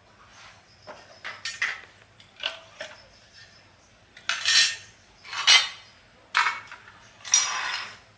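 Metal tools and parts clinking, then four short scraping strokes on metal, the last one the longest.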